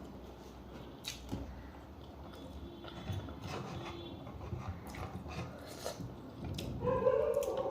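Close-up eating sounds of a person having chicken soup with rice: chewing with scattered small clicks of a utensil against a dish. Near the end a dog starts whining.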